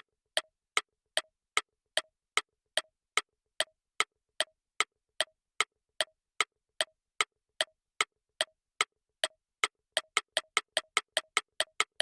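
Quiz countdown-timer tick sound effect: sharp, evenly spaced ticks about two and a half times a second, speeding up to about five a second over the last two seconds as the answer time runs out.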